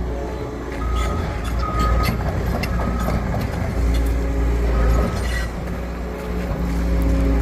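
Heavy demolition machinery running with a steady deep engine rumble. A series of sharp knocks and clanks comes through the middle, and a few short high tones sound over it.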